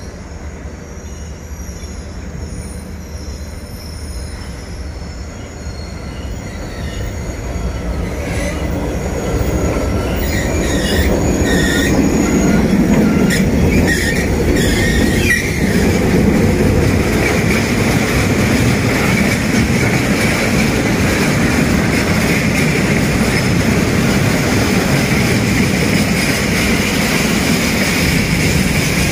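Freight train passing close by. A diesel locomotive grows louder as it approaches and goes past about halfway through, then a long string of freight wagons rolls by with a steady rumble and a constant high wheel squeal.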